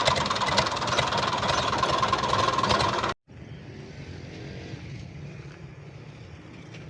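Fiat 480 tractor's diesel engine running hard and loud, then, after an abrupt cut about three seconds in, a much quieter engine running.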